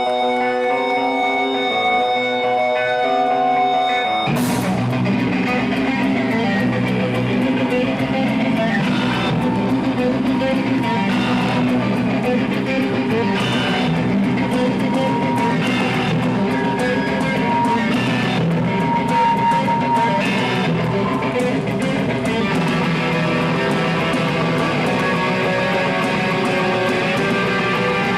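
Live rock band playing: about four seconds of guitar picking out held notes on its own, then the drums and full band come in together with a sudden hit and play on with electric guitars, bass and a steady beat.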